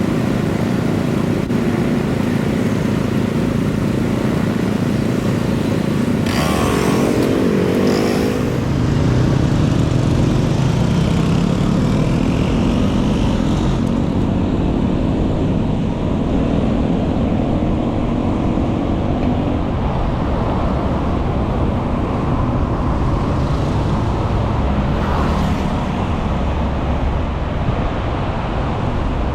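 City street traffic heard from a bicycle: a steady rumble of cars and motorcycles, with engines rising and falling in pitch as vehicles pull away and pass. A short pitched sound with several tones stands out about seven seconds in.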